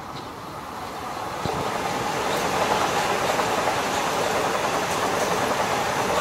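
Metro-North M8 electric commuter train passing at speed, its steel wheels rumbling on the rails. The noise builds over the first two seconds as the train draws level, then holds steady and loud as the cars run by.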